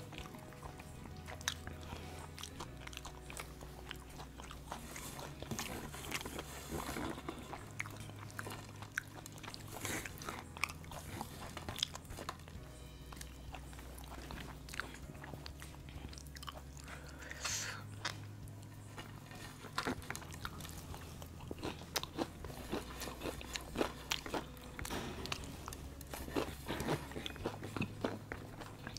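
Close-up chewing and crunching of KFC fried chicken crumbs, with short crisp mouth clicks scattered through. Quiet background music with a slow low bass that changes chord every couple of seconds plays underneath.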